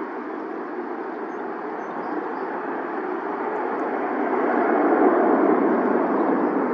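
Airbus A319's jet engines at takeoff power, a steady roar of engine noise that swells as the airliner climbs out.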